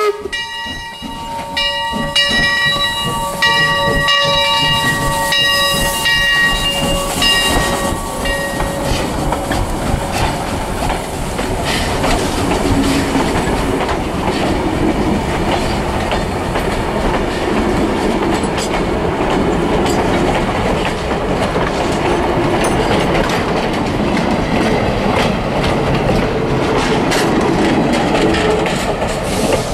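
Steam locomotive's whistle cutting off at the start, then its bell ringing about once a second and fading out over the first several seconds as the 4-4-0 passes. After that, passenger coaches rolling past with a steady rumble and wheels clicking over the rail joints.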